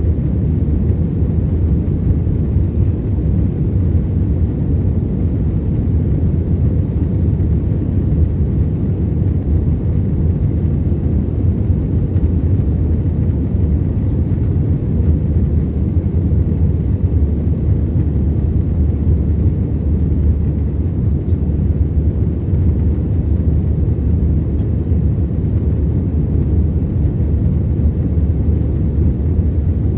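Steady low rumble of an Airbus A321 in flight, heard inside the passenger cabin: its two CFM56 turbofan engines and the airflow over the fuselage, an even sound with no changes.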